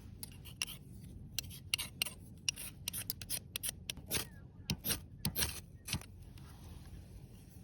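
A quick run of short clicks and scrapes, as of small objects being handled, for about six seconds, then stopping.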